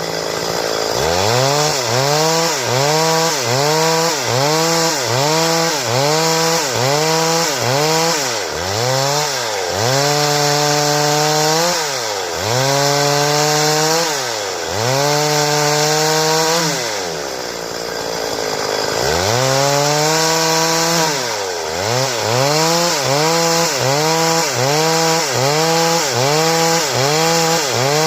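Stihl two-stroke chainsaw running hard while sawing wood into boards. Its engine pitch dips and recovers in a steady rhythm about one and a half times a second, with a few deeper, slower drops.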